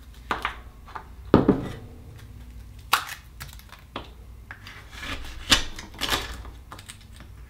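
Akoya oysters being handled and pried open: scattered sharp clicks and knocks of shell, with light scraping between them.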